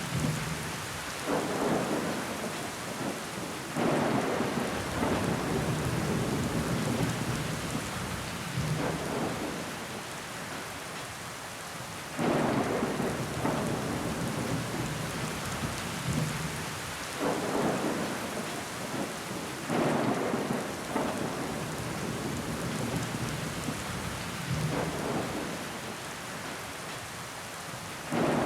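Steady rain pattering on a window pane, with water running down the glass and sudden louder swells every few seconds.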